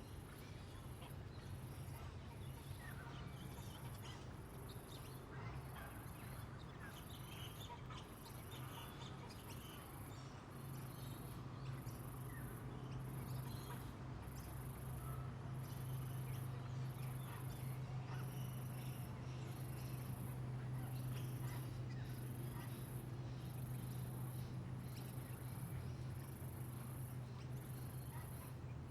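An insect chirping in a steady high-pitched rhythm, about one pulse a second, with scattered short bird chirps and a steady low hum underneath.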